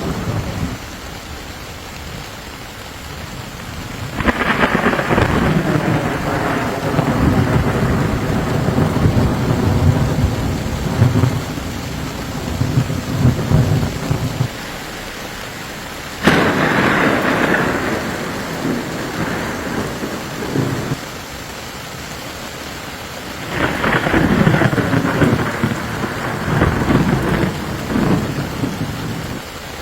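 Steady rain with three peals of thunder. One peal starts a few seconds in and rolls on for about ten seconds, a second opens with a sharp crack past the middle, and a third comes near the end.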